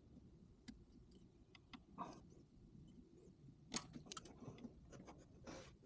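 Near silence with scattered faint clicks and soft rustles, like small objects being handled.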